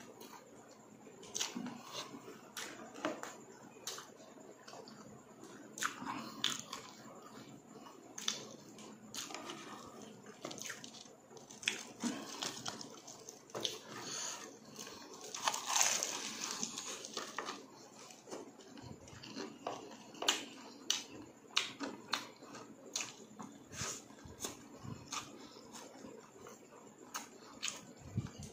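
Close-miked chewing and crunching of fried pork intestines and rice: many short crisp crackles and mouth sounds. A louder, longer crackle comes about halfway through.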